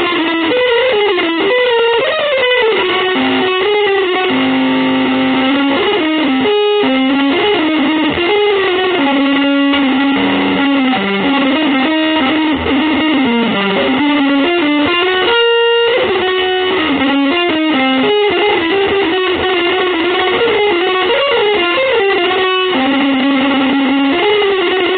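Electric guitar playing a single melodic line of moving notes, some held for a second or more.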